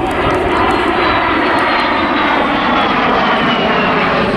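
Vintage jet aircraft passing in a display, a steady engine noise with a high whine that falls slowly in pitch as they go by.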